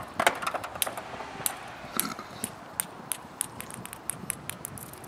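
Irregular sharp clicks and clinks of small hard objects clattering down, several a second at first and thinning out over the seconds after a launch from the car's parcel shelf.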